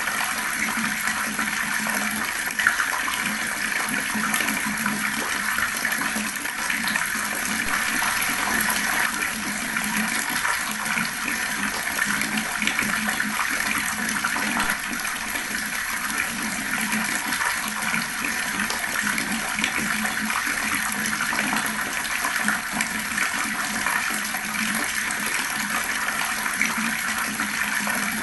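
Water flowing fast in a steady, unbroken stream.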